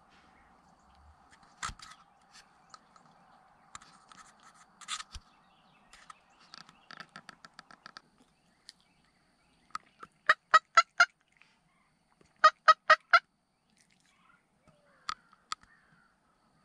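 Turkey calling: two loud runs of evenly spaced yelps, five notes about ten seconds in and four more two seconds later, after softer, quicker clucking notes, with two single sharp notes near the end.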